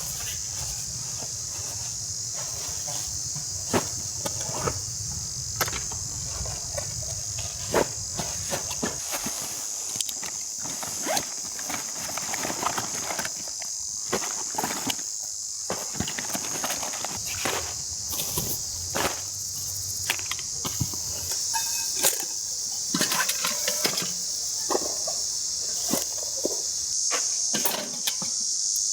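Steady high-pitched insect chorus, with scattered sharp clicks and knocks of camping gear or wood being handled close by.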